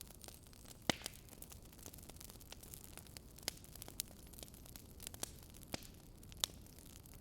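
Burning wood logs crackling: irregular sharp pops and snaps, the loudest about a second in, over a low steady hiss of the fire.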